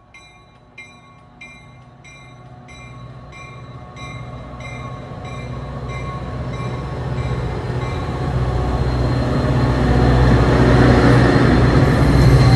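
Trinity Railway Express diesel train getting under way: a bell rings about twice a second and fades away over the first several seconds, while a low locomotive rumble grows steadily louder and is loudest near the end.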